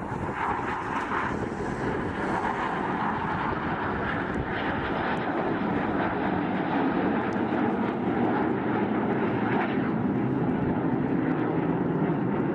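Airplane engine noise: a steady rushing sound that grows a little louder from about halfway through.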